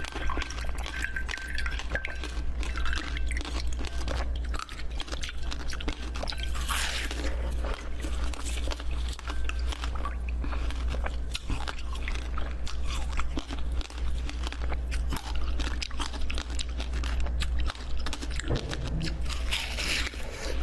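Close-miked eating: crunchy bites and chewing, a dense run of crackles and crunches, over a steady low hum.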